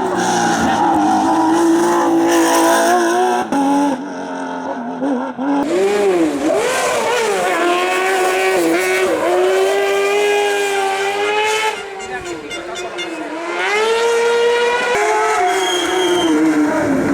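Racing car engines at full throttle, the pitch climbing on each gear and dropping sharply at upshifts and under braking, in a string of short passes.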